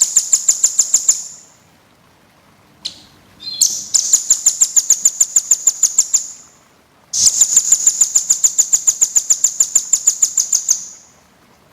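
A small songbird's rapid, high-pitched trills: three runs of about ten notes a second, the longest nearly four seconds, with a short single call between the first two.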